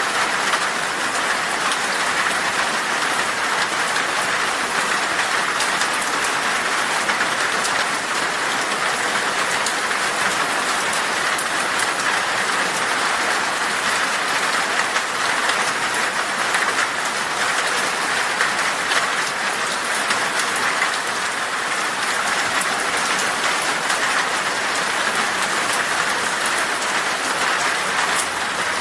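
Heavy rain falling on glass: a steady, even hiss with a fine patter of individual drops striking.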